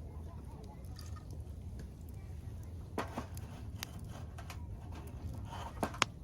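Campfire crackling, with a few sharp pops, two of the clearest about three seconds in and near the end, over a steady low rumble.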